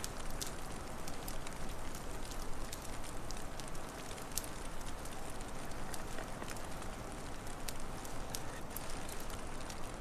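Wood fire crackling, with irregular sharp pops and snaps over a steady rushing background noise.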